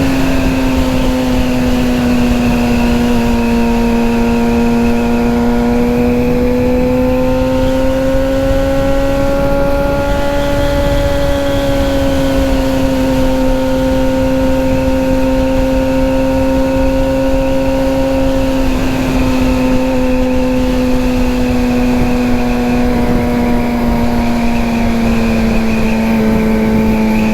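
Suzuki GSX-R750 sportbike's inline-four engine running at a steady cruise, its note drifting gently up and down with no hard revving, over a constant rush of wind noise.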